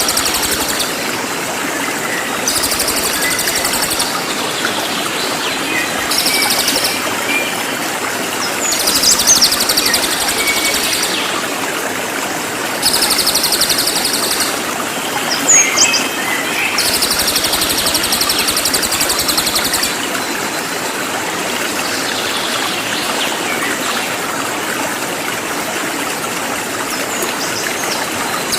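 Cililin bird singing fast, high trilling phrases of one to three seconds each, over and over, with a few short sharp whistles between, over a steady rush of running water.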